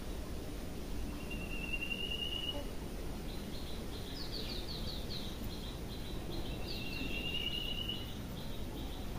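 Birds calling: two drawn-out high whistled notes a few seconds apart and a long run of quick repeated chirps, over a steady low background noise.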